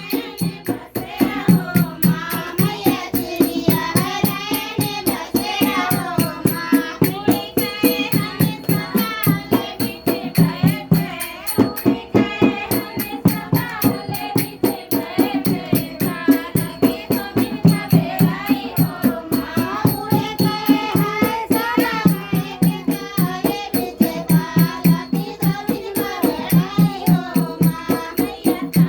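A Hindi devotional folk song sung to a dholak drum beating a steady, even rhythm.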